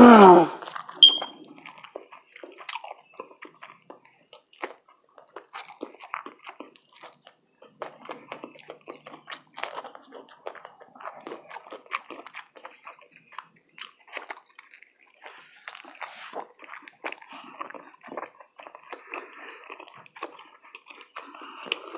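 Close-miked chewing of food, with many short wet mouth clicks and small crunches scattered through it.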